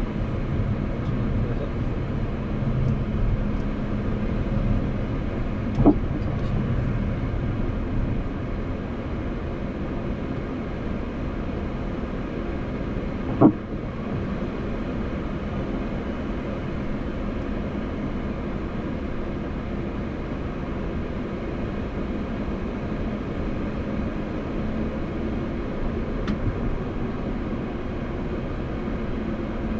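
Steady flight-deck noise inside a Boeing 737 MAX 8 cockpit, with a low hum. Two short knocks come about six and thirteen seconds in.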